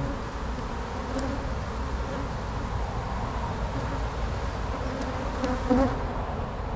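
Honey bees buzzing around an open hive, a steady hum that swells briefly about five and a half seconds in.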